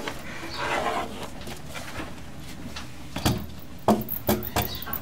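Gloved hands handling and washing a big brown bat: faint rustling and water, with a fainter high-pitched stretch about half a second in, and a few sharp clicks and knocks in the second half.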